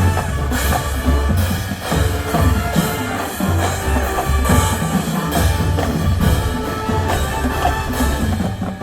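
High school marching band playing, with drums and percussion pulsing under sustained pitched wind parts.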